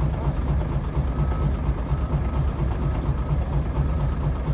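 Caterpillar 345BL excavator's diesel engine idling steadily with an even, low pulsing beat.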